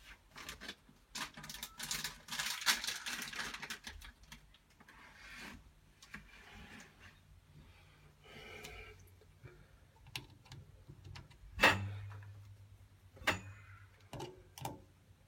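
Clicks, taps and short scraping of hand tools and parts being handled while a new diverter valve is secured in a combi boiler, with one sharp knock about twelve seconds in.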